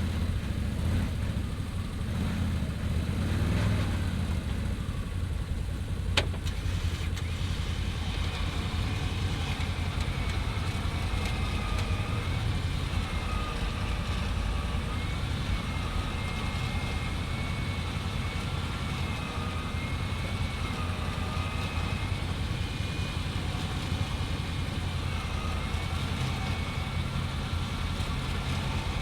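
Engine idling steadily while an electric winch whines as it pulls. A sharp click comes about six seconds in, and the wavering whine follows from about eight seconds.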